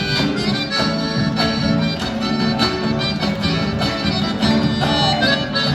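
Live accordion and guitar duo playing a lively chacarera, Argentine folk music, with steady strummed guitar chords under the accordion's melody.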